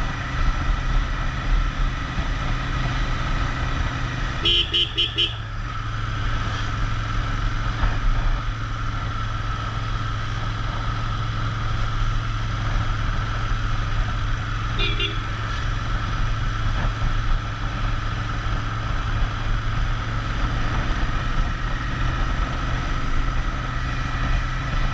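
Royal Enfield Interceptor 650's parallel-twin engine running steadily on the road. A vehicle horn toots four quick beeps about four and a half seconds in, and one short beep about fifteen seconds in.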